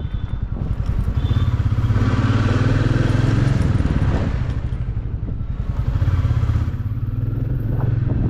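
Motorcycle engine running under way, its exhaust a steady low pulsing rumble that grows stronger about a second in, eases around the middle, then picks up again.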